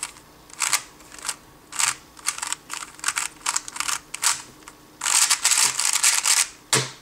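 A 3x3 speedcube being turned by hand: a string of separate clicking layer turns, then a fast, dense run of turns lasting about a second and a half about five seconds in, as a G perm algorithm is executed.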